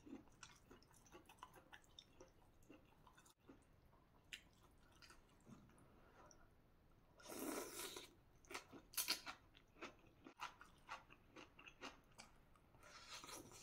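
Faint close-up eating sounds: chewing and crunching of fresh water spinach and rice noodles, in scattered small crackles, with a longer, louder noise about seven seconds in and a few sharper bites soon after.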